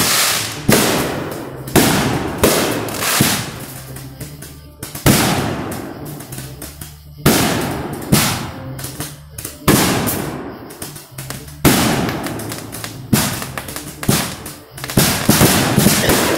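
Fireworks display: aerial shells bursting overhead, a loud bang about every second, each trailing off as it dies away, with a quicker run of bangs near the end.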